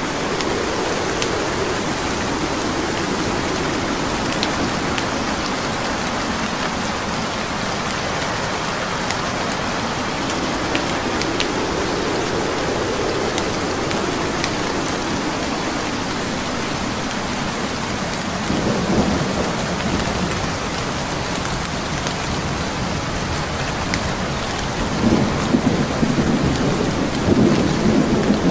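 Steady heavy rain with low rolling thunder that swells several times, loudest near the end, over the sharp pops and crackles of a wood fire burning in a fireplace.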